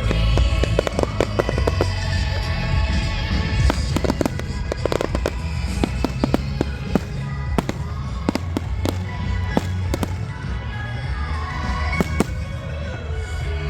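Fireworks going off in quick succession: many sharp bangs and crackling reports, thickest about four to five seconds in, over music playing with a heavy bass.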